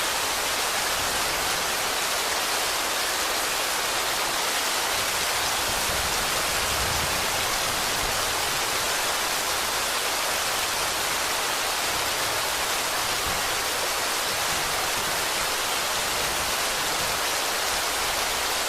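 Steady rain, an even hiss of falling rain with no separate drops standing out. A faint low rumble swells briefly about six seconds in.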